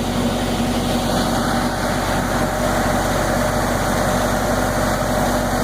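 Zoo tram's engine running steadily as the tram drives along, heard from on board: an even rumble with a low, steady hum.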